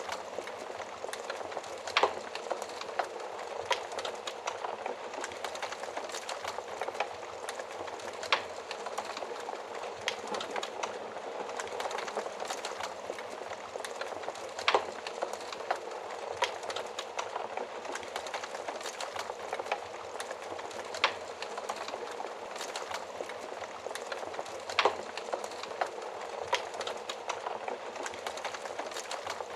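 Wood fire burning in an oven: a steady hiss of flames with continual small crackles and a sharp louder pop every few seconds.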